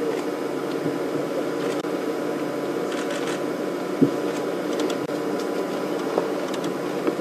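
A steady mechanical hum made of several fixed tones, with a few faint clicks and ticks over it.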